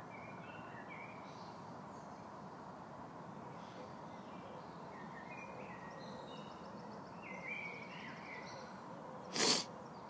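Woodland birds chirping and calling in short, scattered phrases over a steady outdoor background hiss. A brief, loud rush of noise near the end.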